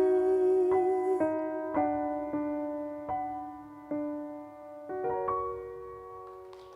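Piano playing the slow closing bars of a song alone, sustained notes and chords struck about once a second and fading steadily quieter toward the end.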